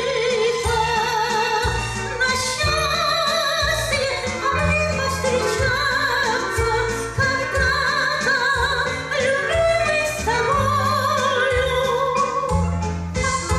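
A song with a solo voice singing in wide vibrato over a backing accompaniment with a steady bass line.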